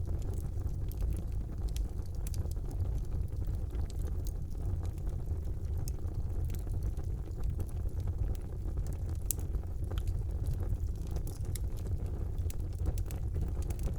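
A fire burning in a fireplace: a steady low rumble of the flames with scattered sharp crackles and pops throughout.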